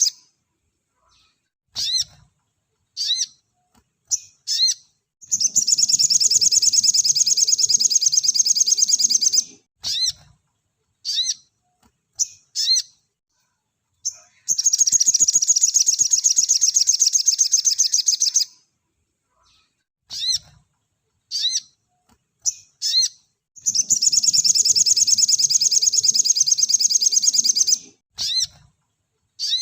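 Little spiderhunter (sogok ontong, 'sogon') singing: three long, rapid, high-pitched trills of about four seconds each, with short sharp chirps between them, the pattern repeating evenly.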